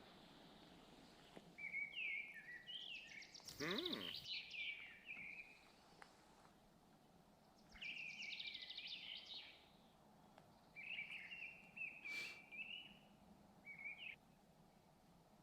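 A songbird singing short, chirped phrases four times, over a faint outdoor background. A brief knock-like sound comes about four seconds in and another about twelve seconds in.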